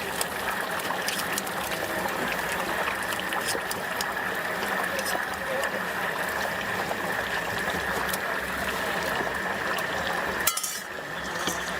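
Hot oil sizzling as stinky tofu deep-fries: a steady crackling hiss full of small pops. A single sharp clack comes near the end.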